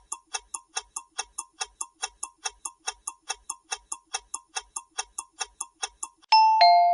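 Countdown-timer sound effect: rapid clock ticking, about five ticks a second, then a two-note descending chime near the end marking that the time is up.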